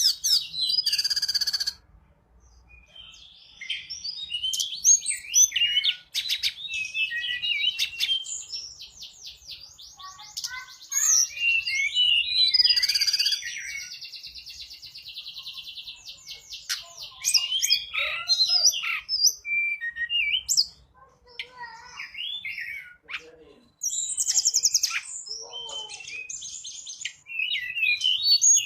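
Tledekan gunung song: a lively run of high chirps, rippling trills and fast rattling phrases, broken by brief pauses. It is a lure call, used to draw in wild birds of the same species.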